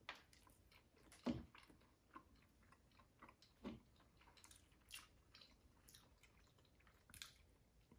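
Faint chewing of soft brownie: scattered small mouth clicks and smacks, the loudest about a second in and again a little past three and a half seconds.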